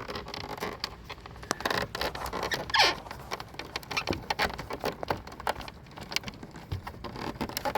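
Irregular small clicks, taps and light scrapes of hands handling a coax cable and screwing its connector onto a cable modem inside an equipment box.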